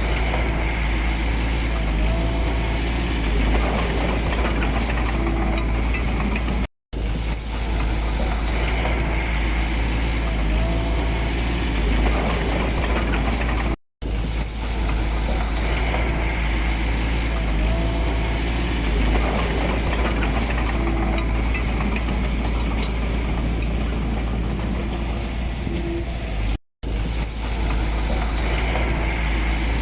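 Heavy diesel engine of earthmoving machinery running steadily, with a deep, constant rumble. The sound cuts out completely for a split second three times.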